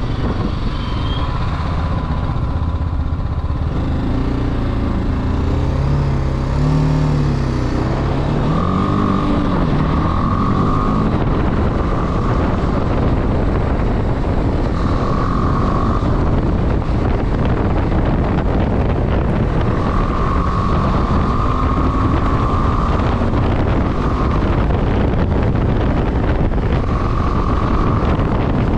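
Motorcycle being ridden, its engine pitch rising and falling as it revs for a few seconds near the start, under a steady rush of wind noise on the microphone. A faint high whistle comes and goes.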